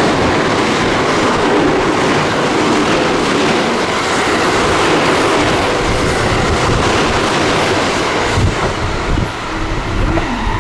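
Electric train running past the platform, a steady loud rush of wheels on rail with some clatter, easing off after about eight seconds.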